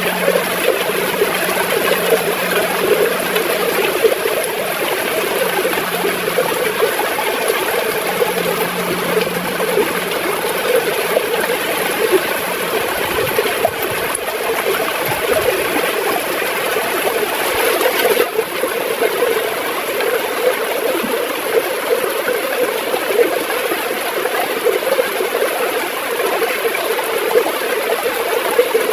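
Gurgling river water flowing steadily.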